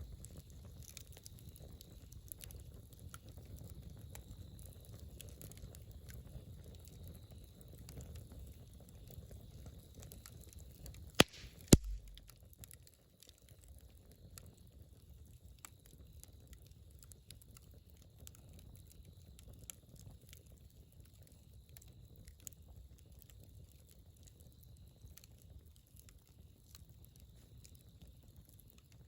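Campfire burning, with scattered small crackles throughout and two sharp, loud pops about eleven seconds in. A low rumble under the crackling for the first half drops away just after the pops.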